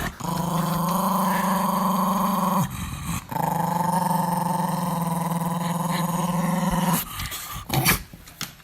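Dog growling in two long, steady growls with a short break between them, then a few brief sounds near the end.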